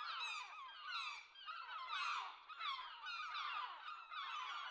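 Many birds calling at once: a dense, steady chorus of quick, downward-sliding chirps.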